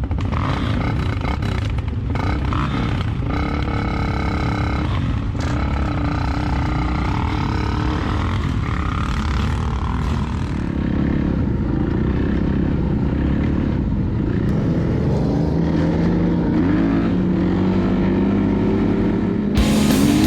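Dirt bike engine running under changing throttle, with heavy wind rumble on the microphone; the engine note rises over the last few seconds.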